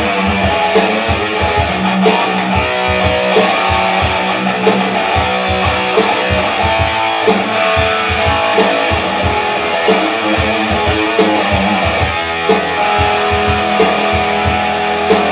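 Rock band playing an instrumental passage with no vocals: electric guitars over a steady drum beat.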